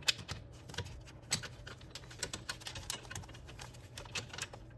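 Wrench clicking and small metal-on-metal clinks in short, irregular strokes while a bolt on the car's clutch hydraulics is worked loose, over a faint low steady hum.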